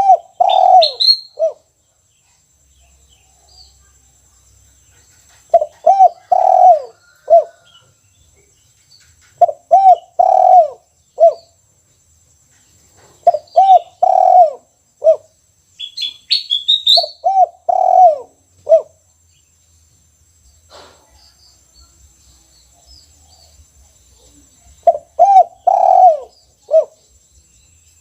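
Caged spotted dove (tekukur) cooing: a phrase of several low coos repeated about every four seconds, with a longer pause in the second half. Brief high chirps from a small bird come in twice.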